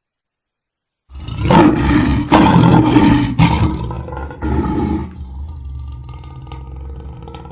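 Lion roaring: a loud roar starts about a second in and swells in several surges, then dies down after about four seconds into a quieter, lower rumble.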